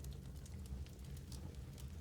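Wood fire crackling in a fireplace: a steady low rumble of flames with frequent small irregular snaps and pops.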